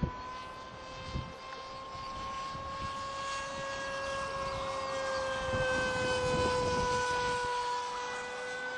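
Whine of a Multiplex TwinJet's homemade brushless outrunner motor and propeller in flight: a steady high-pitched tone that swells louder and dips slightly in pitch about six seconds in as the model passes by.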